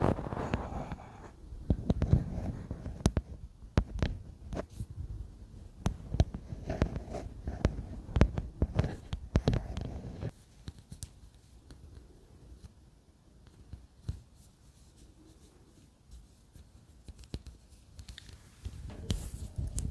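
Close-miked ASMR tapping and scratching on objects: quick, dense taps and rustling for about the first half, then only a few soft scattered taps, with busier handling returning near the end.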